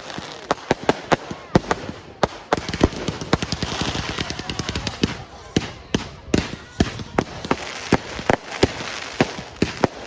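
Fireworks going off: a rapid, irregular string of sharp bangs, several a second, with a stretch of dense crackling about halfway through.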